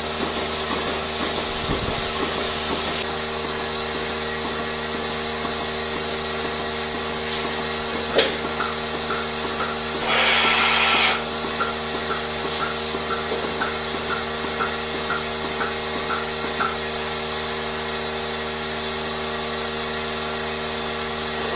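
Machinery running with a steady multi-tone hum, a sharp click about eight seconds in, a loud hiss lasting about a second shortly after, and a run of small regular ticks, roughly two a second, through the middle.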